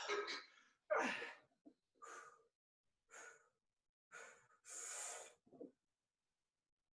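A person breathing hard in short, forceful breaths about once a second, a few with a little grunt of voice: a lifter straining through a heavy barbell squat set.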